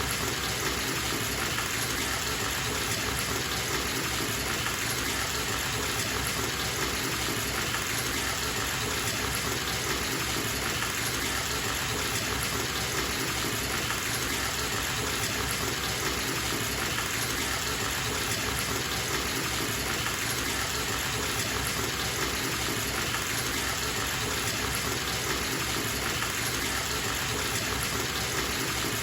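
Water running steadily from a bathtub tap into the tub as it fills, an even, unbroken rush of splashing water.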